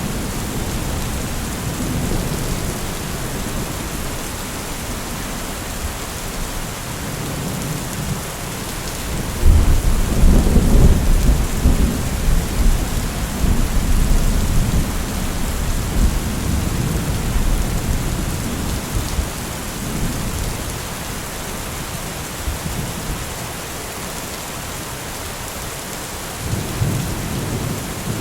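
Steady heavy rain hiss, with a long low rumble of thunder that breaks in about a third of the way through and slowly dies away, and another rumble starting near the end.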